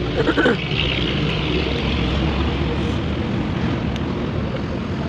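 Two-stroke chainsaw engine running steadily, now started after its hard-starting fault was repaired. A brief voice cuts in near the start.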